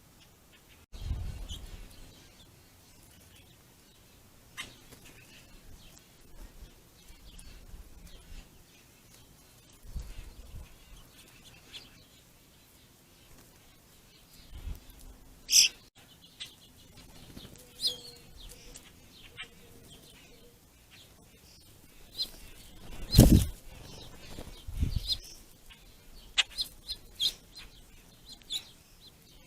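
Small songbirds at a ground feeding spot giving scattered short chirps and calls, with occasional low thumps and wing flutters. A loud, brief burst about three quarters of the way through is the loudest sound.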